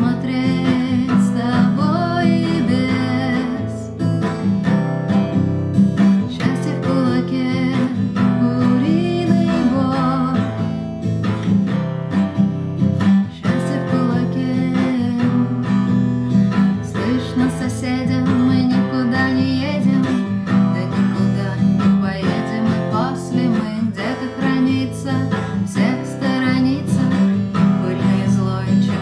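A song sung to a strummed acoustic guitar.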